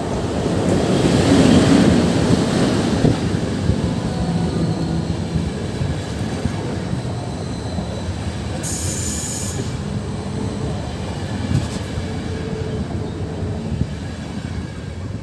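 EP09 electric locomotive-hauled passenger train rolling past, loudest about a second or two in and then a steady rumble of carriages on the rails. A brief high hiss about nine seconds in.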